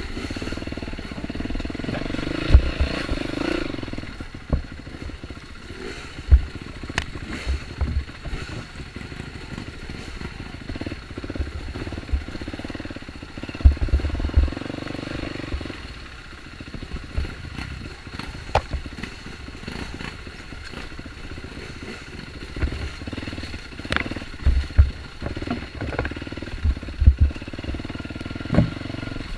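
Off-road dirt bike engine running over a trail, the revs rising and falling, with scattered knocks and low thumps.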